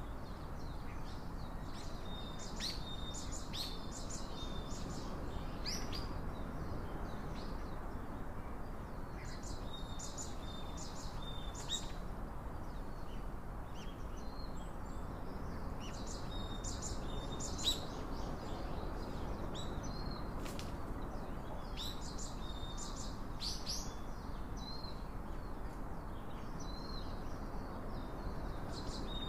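Small birds calling in short clusters of high chirps, a new cluster roughly every five to six seconds, over a steady low outdoor hiss, with one sharp tick a little past halfway.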